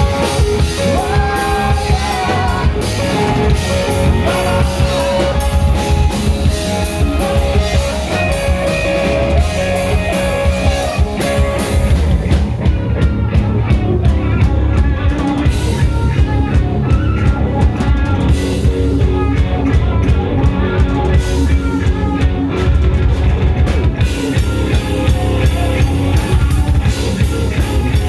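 A rock band playing live: drum kit and guitar going loud and steady, with the high end thinning out for a stretch midway through before it comes back.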